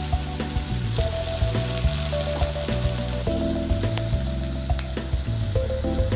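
Pepper chicken fry sizzling in hot oil in a kadai, with occasional small pops. The dish is almost done and the oil has separated from the masala. Soft background music plays under it, its held notes changing about once a second.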